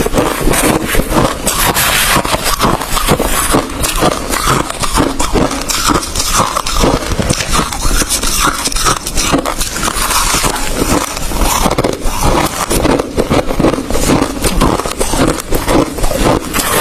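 Hard ice being chewed close to the microphone: a continuous run of crunching and cracking bites without a break.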